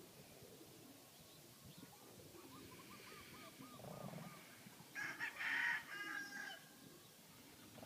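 A rooster crows once, about five seconds in, a loud call lasting about a second and a half, with softer bird calls shortly before it.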